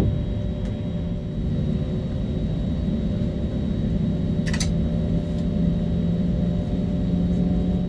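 Steady low rumble and hum inside the cabin of an Airbus A320neo airliner, with one brief click about halfway through.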